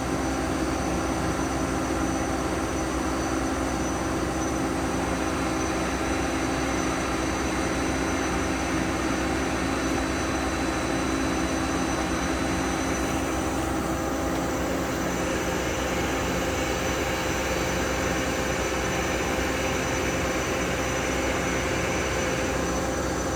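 Toshiba BF-130A CNC horizontal boring mill running under power: a steady machine hum with several steady tones. Its higher tones change about halfway through, as the machine shifts to a different motion or speed.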